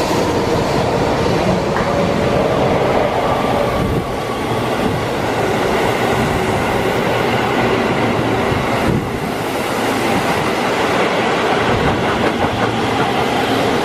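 Keihan limited express electric train running through the station at speed, with steady rail and wheel noise and clattering over the rail joints. A second electric train then runs along the far track.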